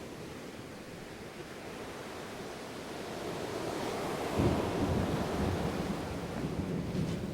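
Ocean surf washing steadily. A wave swells and breaks about four seconds in, adding a heavier low surge that eases near the end.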